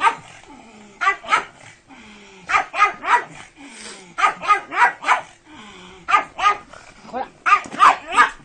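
A dog barking repeatedly in quick clusters of two to four barks, a new cluster about every second and a half.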